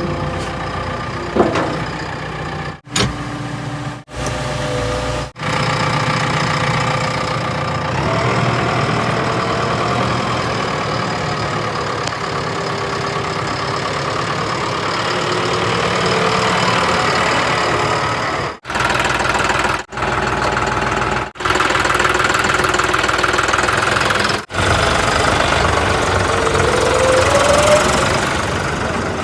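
Heavy diesel engines running and revving, in a series of short clips joined together so that the sound breaks off abruptly at each cut.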